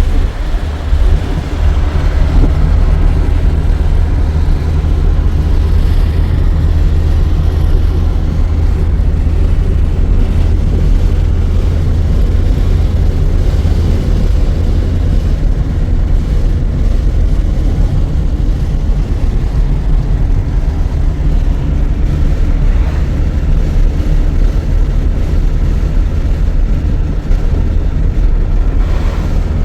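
Steady, loud low rumble of a vehicle running, unchanging throughout.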